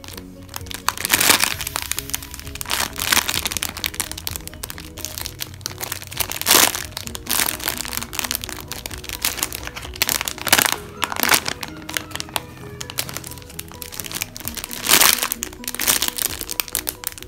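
Background music with a steady tune, over repeated crackling and crinkling of plastic wrapping handled close to the microphone, in bursts a few seconds apart.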